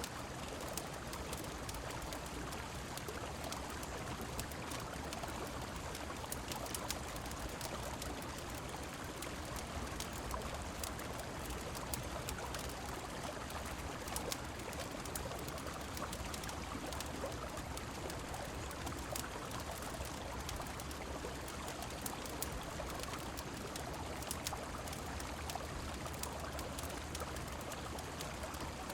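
Steady rush of a flowing river mixed with rain, dotted throughout with many small sharp ticks and crackles.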